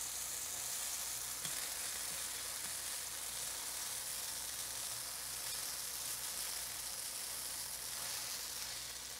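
A fig half frying in a hot nonstick wok, its pulp caramelizing into jam, with a steady sizzle throughout.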